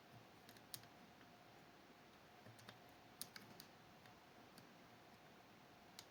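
Faint, scattered small clicks, about ten over several seconds, of a lock pick probing and lifting the levers of a Fichet 484 lever sidebar lock held under tension.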